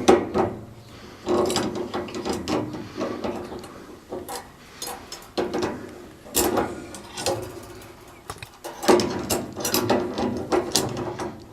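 Pliers working a tight threaded metal fitting loose on a gas water heater: irregular metallic clicks, scrapes and clatter coming in several busy stretches.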